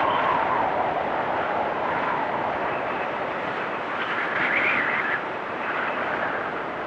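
Blizzard wind howling: a steady rush with whistling gusts that swell and fade, the highest-pitched gust about four seconds in.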